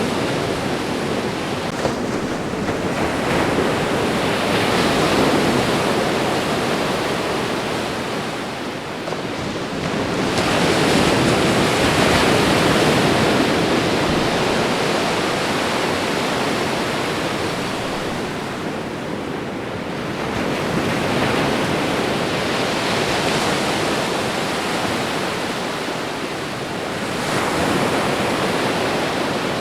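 Ocean waves washing onto a shore, a steady surf noise that swells and ebbs as each wave comes in, about every five to eight seconds.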